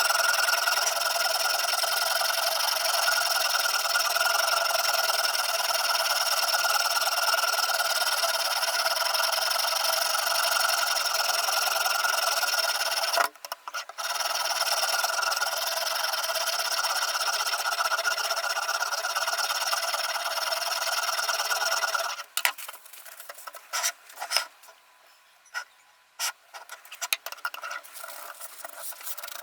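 Sharpening stone of a guided knife sharpener stroked along a Damascus steel kitchen knife's edge, a steady scraping with a brief pause partway through. About two-thirds of the way in the scraping stops, leaving a few scattered light clicks and knocks.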